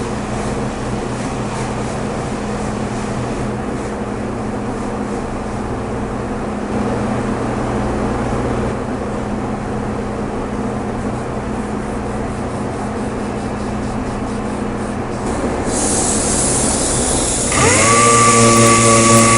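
A power tool running steadily with a mechanical hum. Near the end a second, higher whine spins up quickly and holds steady, louder than before.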